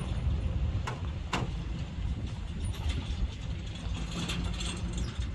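A vehicle engine idling, a steady low rumble, with two sharp clicks about a second in.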